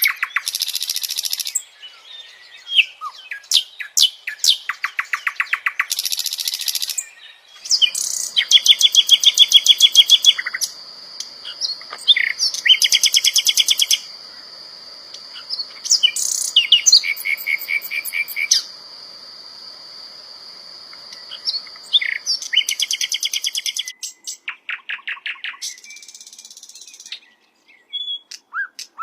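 Sikatan londo flycatcher singing: bursts of rapid, evenly pulsed trills alternating with sharp single chirps and short phrases. A steady high-pitched tone runs behind the song through much of the middle.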